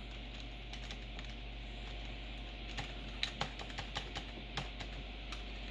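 Computer keyboard keys pressed one at a time while navigating BIOS setup menus: scattered short clicks, sparse at first and coming more often from about halfway through.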